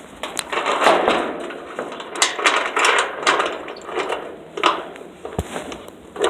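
A gate's latch being worked by hand: irregular clicks, knocks and rattles with rustling between them.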